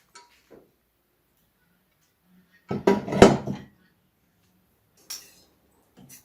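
Metal parts clanking and rattling as they are handled: one loud clatter lasting about a second in the middle, with a few light clicks before and after.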